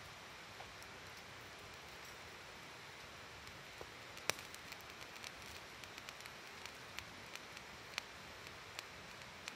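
Wood campfire crackling, with sharp pops scattered over the second half and the loudest about four seconds in, over the steady murmur of a flowing river.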